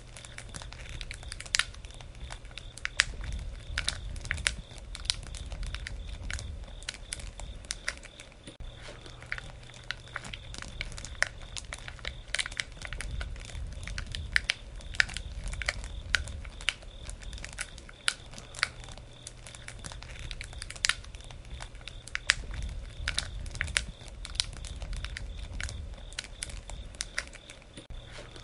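Wood campfire crackling, with frequent irregular sharp pops and a low rumble of flame that swells and fades every several seconds.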